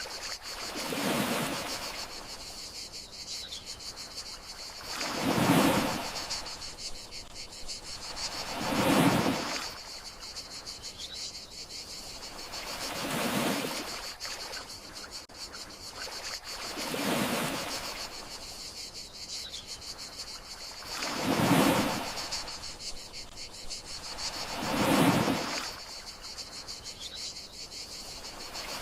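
Gentle sea waves washing onto the shore in slow, even swells about every four seconds, over a steady high chorus of crickets.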